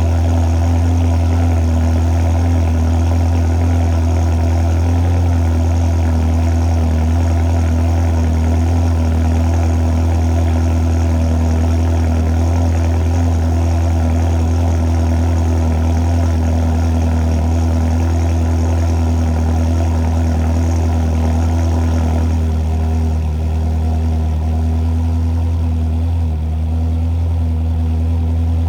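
Ferrari 360 Spider's 3.6-litre V8 idling steadily shortly after a cold start. The sound eases slightly about three-quarters of the way through.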